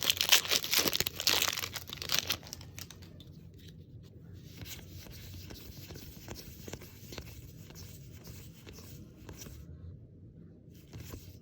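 Foil wrapper of a Magic: The Gathering draft booster pack torn open and crinkled, a dense crackling for the first two seconds or so, followed by fainter rustling and soft clicks of cards being handled.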